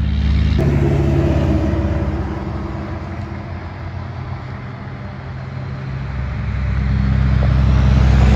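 Heavy diesel truck engines passing on a road: one truck's engine sound fades away over the first few seconds, then another approaches and grows steadily louder toward the end.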